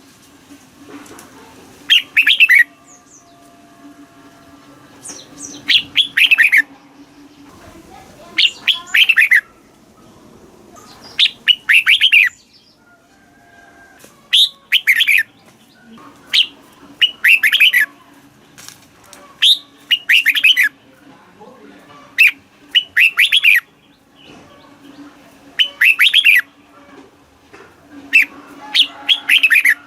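Red-whiskered bulbul singing: short, bright phrases of quick warbling notes repeated every two to three seconds, over a faint steady low hum.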